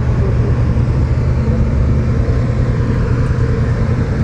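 Motorcycle engines idling steadily, a low, even running sound that holds the same pitch throughout.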